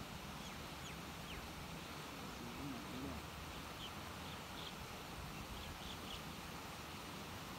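Faint outdoor ambience: a steady hiss with scattered short, high bird chirps, in a cluster near the start and another from about four to six seconds in.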